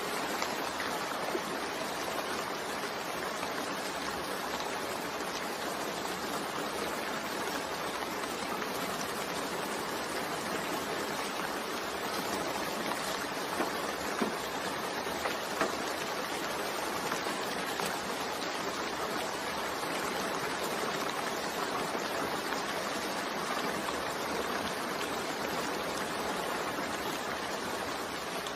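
Steady rain mixed with white noise: a continuous, even hiss, with a few sharper drop ticks near the middle.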